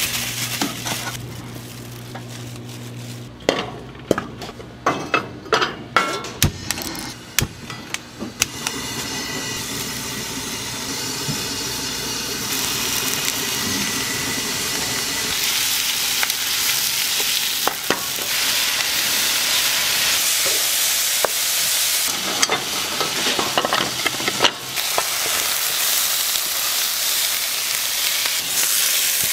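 Spicy chicken feet and vegetables stir-frying: a few seconds in, a run of sharp knocks and scrapes of a utensil against the pan, then sizzling that builds and grows louder, ending as the dish sizzles on a hot iron plate.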